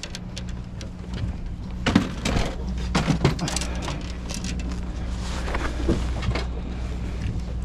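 Steady low hum of a boat's engine running, with knocks and clatter of gear being handled, busiest about two to three and a half seconds in, and voices in the background.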